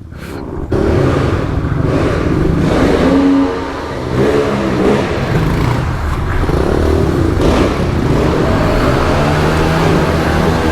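Pit bike engines running and revving, loud and continuous, easing off briefly about a third of the way in and then picking back up.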